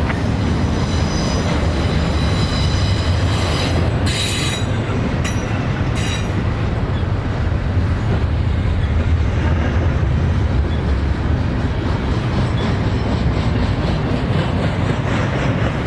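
Freight train rolling past with a steady low rumble of wheels on rail, with thin high wheel squeal in the first few seconds and a few sharp clicks from the rail joints a few seconds in.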